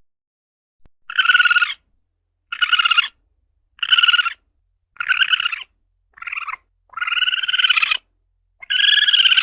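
Civet (luwak) calling in a run of short, pitched cries, about one a second, with dead silence between them, as in a civet lure-call recording.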